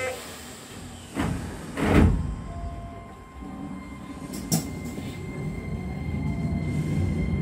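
Keisei electric train in the cab: two short bursts of noise about a second apart near the start and a sharp click midway. Then the running noise of the train grows steadily louder as it gets under way, with a thin steady whine.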